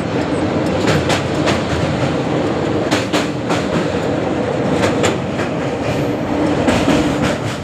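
Passenger train running along the track: a steady rumble with irregular sharp clacks of the wheels going over rail joints.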